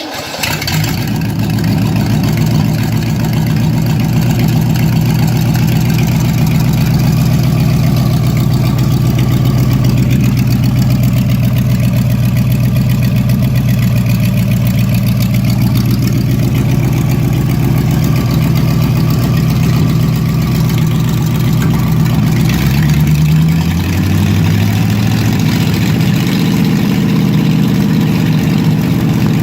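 1962 Chevrolet 327 small-block V8 running steadily just after catching. About three-quarters of the way through, the engine speed shifts up and down a few times.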